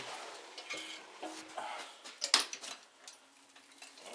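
Scattered clicks and metal knocks from a wood fire being opened up and tended, with one sharp knock a little over two seconds in.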